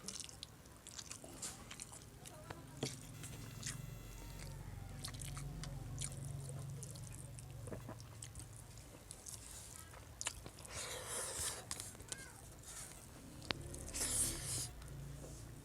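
Close-up eating sounds of a person chewing and biting paksiw na bangus, with many small wet mouth clicks. Two louder hissing mouth noises come about ten seconds in and again near the end.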